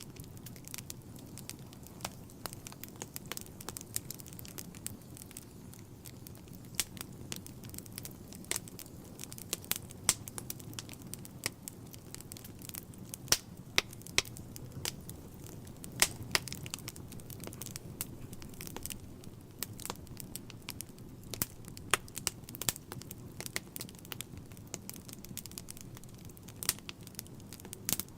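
Wood fire burning in a fireplace: a steady low rumble of the flames with many sharp, irregular crackles and pops, a few louder snaps in the middle.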